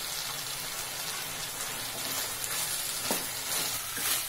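Fried egg pieces, onion and capsicum sizzling in sauce in a stainless steel kadai as they are stirred with a wooden spatula, with two knocks of the spatula against the pan, about three seconds in and near the end.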